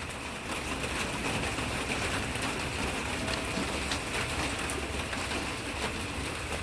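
Steady rain falling, a dense patter of drops on leaves and surfaces.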